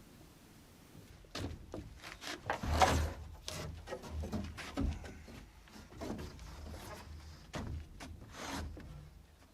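Framing lumber being handled: wooden boards knocking and scraping against each other in irregular clunks, beginning about a second in, with a longer, louder scrape a little before three seconds in.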